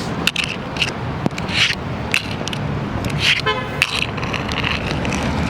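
Outdoor traffic noise with a low rumble, scattered sharp clicks and taps, and one short car-horn toot about three and a half seconds in.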